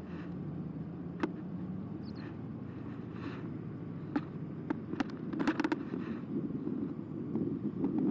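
Carbo X eBike in motion: a steady low hum of the motor and tyres, with sharp clicks and a brief rattle as the bike jolts over bumps in the path.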